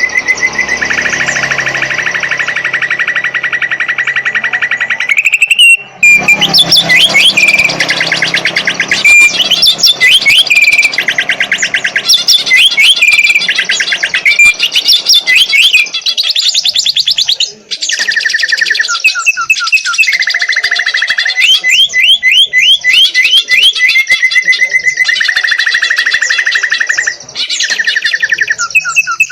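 Cucak ijo (green leafbird) singing loudly and without pause, mixing fast buzzy trills with quick sweeping whistled chirps, broken by brief gaps about six seconds in, midway and near the end.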